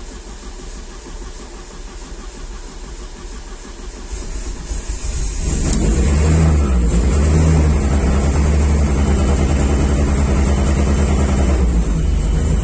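Freshly rebuilt Audi 1.8T turbocharged four-cylinder engine running on its first start after the rebuild. It idles quietly at first, then about five and a half seconds in it rises to a much louder, steady note and holds there at about 2,000 rpm.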